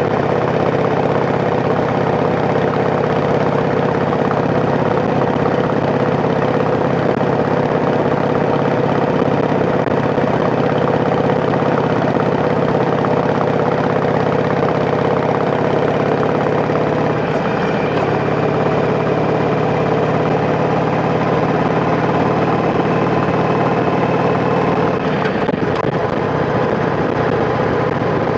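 Yamaha Drag Star 1100's air-cooled V-twin engine running steadily, its note shifting about 17 seconds in and again near the end.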